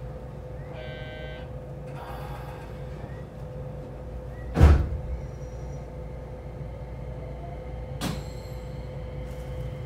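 Inside an electric commuter train standing at a station: a steady hum and low rumble, a brief chime about a second in, a loud thud about halfway through and a sharper knock near the end.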